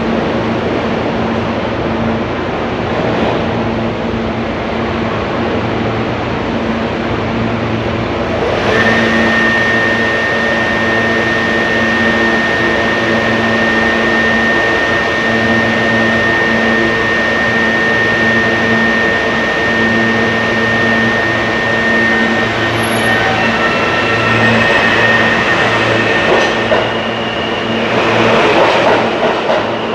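Train running, a steady engine hum under rail noise; a steady high whine comes in about nine seconds in and fades out about three quarters of the way through.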